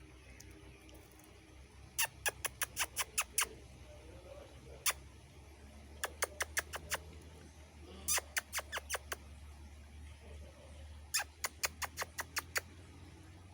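Marmosets calling in rapid bursts of short, sharp chirps, six to eight at a time, four bursts in all with one lone chirp between them.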